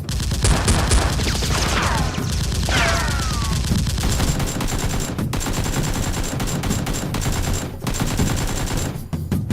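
Rapid automatic gunfire sound effects, a dense continuous volley, with two falling whines about two and three seconds in, cutting off sharply near the end.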